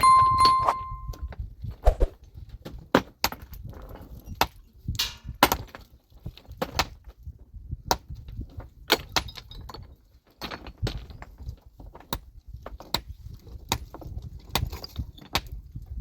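Irregular sharp knocks of metal tools and stones on rock, roughly one a second: stone-breaking and clearing work. The first strike gives a brief metallic ring.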